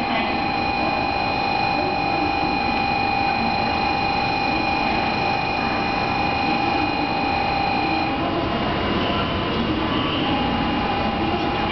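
Electric departure bell on a Shinkansen platform ringing continuously as a steady rapid ring, signalling that the train is about to leave. It stops about eight seconds in, and a different steady tone follows shortly after.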